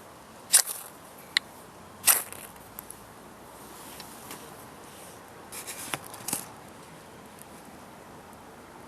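A few sharp clicks and knocks, the first three spread over the first couple of seconds and a short cluster of them later, over a steady low hiss.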